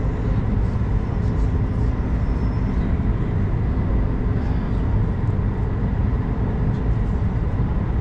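Steady low cabin rumble inside an Airbus A220-100 airliner, engines and airframe running at an even level.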